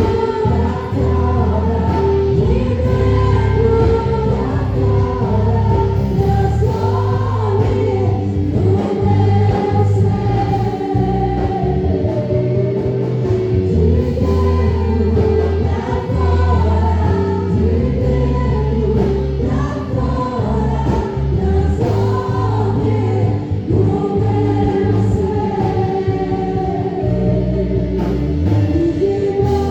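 A gospel worship song: several voices singing together over sustained bass notes and accompaniment.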